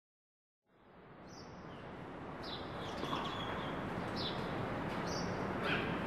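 Outdoor ambient noise fading in from silence, with a few short bird chirps scattered through it.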